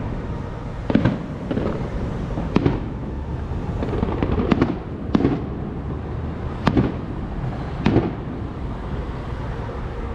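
Fireworks going off: about six sharp bangs, one every second or two, over a steady low rumble.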